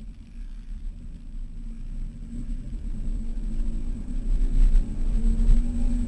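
Off-road vehicle engine running with a deep rumble, its note rising slightly and getting louder over the last couple of seconds as it pulls harder.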